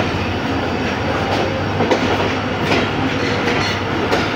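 Shalimar Express passenger coaches rolling past along the platform: a loud, steady rumble of wheels on the track with sharp clacks now and then.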